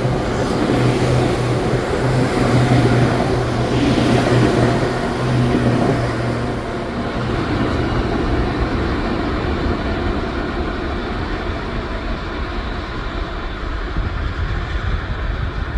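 JR 205 series electric train passing through a station without stopping. Its running rumble and low hum are loudest for the first six seconds or so, then ease into a quieter steady rumble as it goes by.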